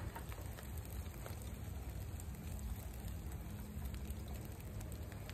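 Fried rice sizzling steadily in a frying pan while a spatula stirs it, with a faint crackle.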